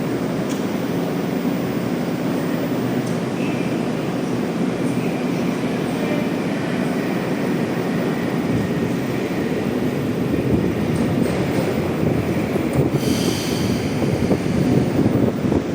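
Metro train running between stations, heard inside the carriage: a steady rumble of wheels and running gear on the track, with faint wheel squeal a few seconds in and a brief higher squeal near the end.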